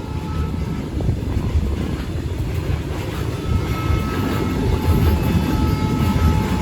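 A train hauled by a WAG-12 electric locomotive passes close by: a steady rumble of wheels on the rails with clickety-clack, slowly growing louder, and a faint steady whine above it.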